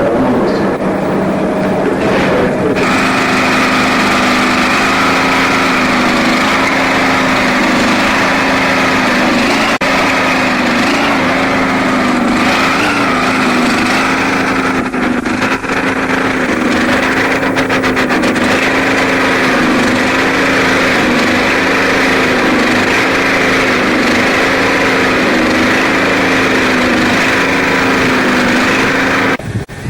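A motor-driven machine running steadily with a held, slightly wavering hum. It settles into a steady pitch about three seconds in and cuts off abruptly near the end.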